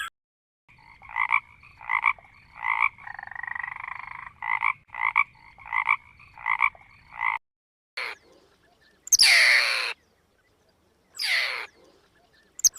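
A frog croaking in a quick series of about ten short, even calls, with one longer drawn-out croak in the middle. In the second half come four loud calls, each sweeping sharply downward in pitch.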